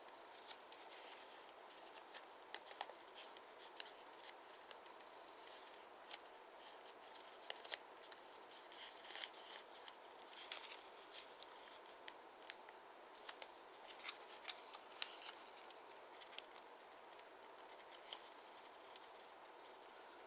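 Square of origami paper being handled, folded and creased by hand: faint, irregular crisp rustles and ticks of the paper over a low steady hiss.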